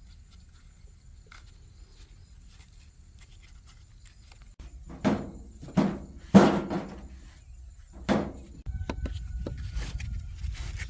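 Four sharp metallic knocks, each ringing briefly, in the second half. Near the end a steady low rumble with a faint whine sets in.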